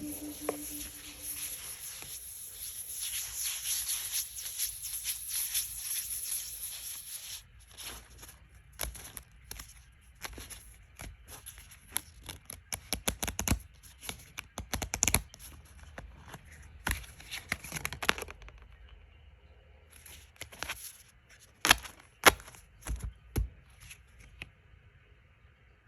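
Tarot cards and paper being handled: a dense rustle for the first seven seconds or so, then scattered short rustles and sharp paper and card clicks, several loud ones near the end.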